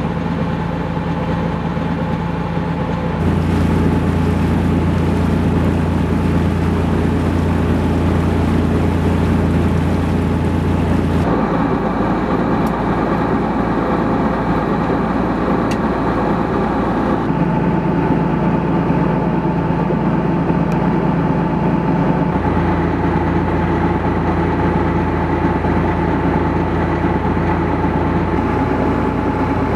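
Sailboat's engine running steadily while motoring under way. Its pitch and tone shift abruptly a few times.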